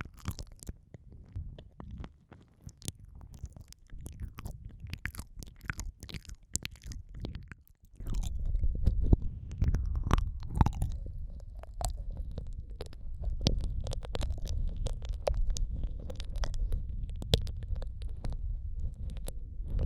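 Close, wet mouth sounds of ASMR ear eating: licking, smacking and clicking right on the microphone's ear. About eight seconds in, the mouth covers the microphone and a deep muffled rumble sets in under the clicks.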